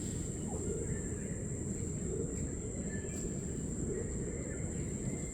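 Outdoor ambience: a steady low rumble with a continuous high, thin insect drone over it and a few faint bird chirps.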